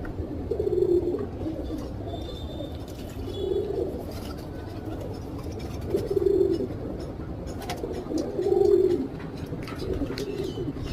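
Domestic pigeon cooing: five low coos spaced about two to three seconds apart.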